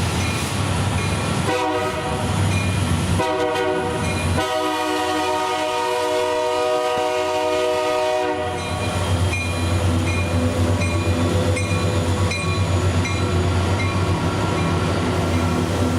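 Train horn sounding a chord three times, two short blasts and then one long blast of about four seconds, over the steady rumble of a passing freight train. A regular high ding sounds about twice a second behind it.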